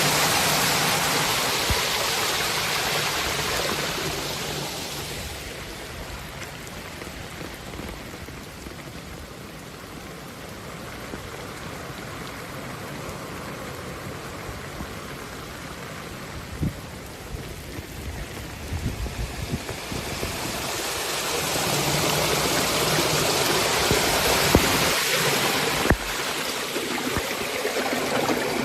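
Rushing floodwater and heavy rain, a steady rush that eases for a while in the middle and builds again near the end, with a few brief low knocks.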